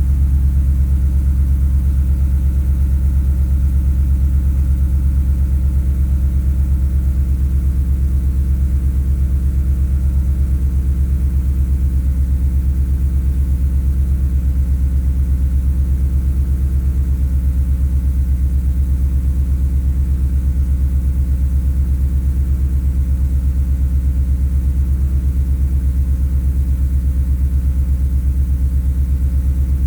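Ford Coyote 5.0 V8 idling steadily through long-tube headers, a Magnaflow muffler and two 3-inch Vibrant resonators, warming up after a cold start: a deep, even exhaust rumble.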